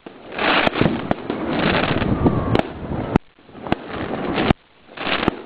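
Aerial fireworks exploding: several sharp bangs spread over about five seconds, with stretches of dense crackling between them.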